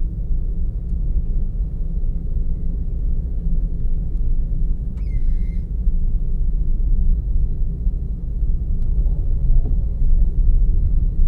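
Steady low rumble of a car driving, picked up by a vehicle-mounted camera: engine and tyre noise. A brief high chirp about five seconds in.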